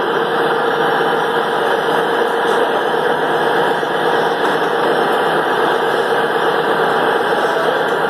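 Class 220 Voyager diesel multiple unit pulling out of the station, its underfloor diesel engines running under power with a loud, steady drone.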